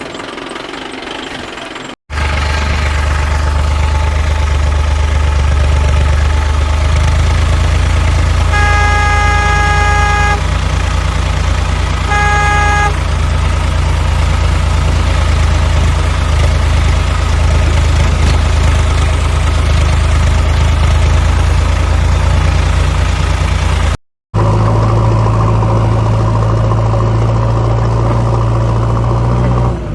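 Tractor diesel engine running with a steady low drone, and a vehicle horn honking twice about a third of the way in, a long blast followed by a short one.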